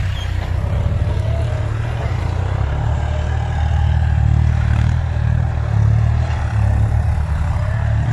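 Tractor diesel engine running steadily with a deep low rumble, swelling slightly in the middle.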